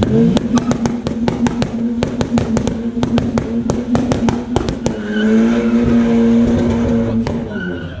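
Car engine revved hard and held at a steady high note, with a quick irregular run of sharp pops (about five a second) through the first half, before the revs drop away near the end.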